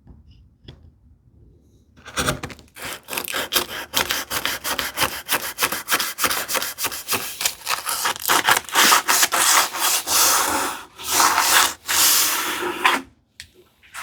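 Hand sanding of wood: quick back-and-forth abrasive strokes smoothing the tambour door track groove, starting about two seconds in, pausing briefly near the end and stopping shortly before the end.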